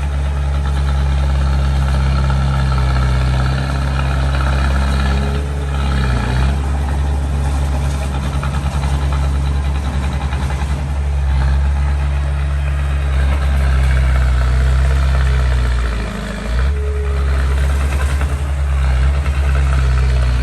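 Small bulldozer's diesel engine running steadily under work, its note dipping briefly twice, about six seconds in and again a few seconds before the end.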